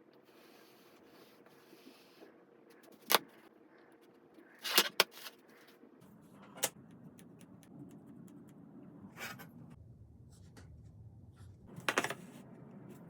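Scattered sharp clicks and knocks of objects being handled and set down, a single one about three seconds in, a quick double about five seconds in, and a short cluster near the end, over a faint low steady hum.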